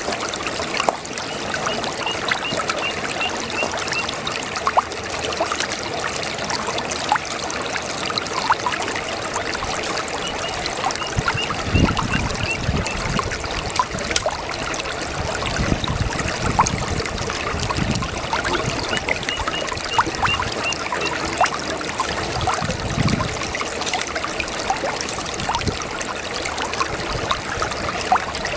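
Small brook babbling and trickling over stones, a steady flow with many small splashes. A rapid high chirping trill comes three times over it, and there are a few brief low rumbles in the middle.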